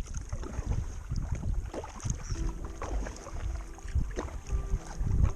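Kayak paddling: paddle strokes splashing in the swamp water with irregular knocks on the kayak, and wind rumbling on the microphone. A steady high insect drone runs underneath.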